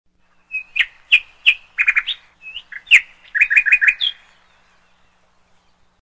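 A small songbird chirping: a quick run of short, sharp chirps and trilled notes for about three and a half seconds, then it stops.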